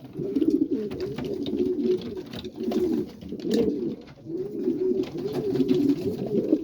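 Racing pigeons cooing continuously, several birds overlapping in rolling low calls, the courting coos of newly paired cocks and hens.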